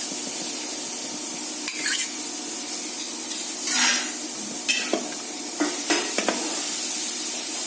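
Chicken curry gravy cooking in a pan with a steady sizzling hiss, while a spoon stirs it and scrapes against the pan several times.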